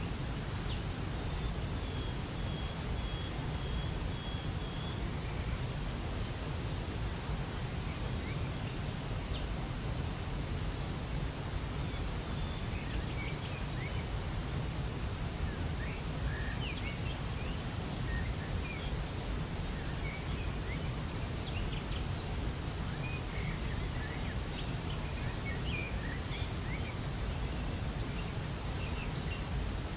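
Waterfall rushing steadily, with small birds chirping now and then above it, including one thin held whistle about a second in.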